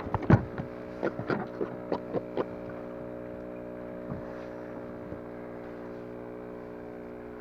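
A run of sharp knocks and clicks, the loudest just after the start, fading out after a couple of seconds, over a steady low hum made of several even tones.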